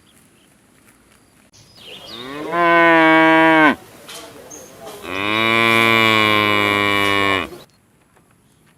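Cow mooing twice: a first moo of about two seconds that rises in pitch as it starts, then after a short pause a second, lower-pitched moo of about two and a half seconds.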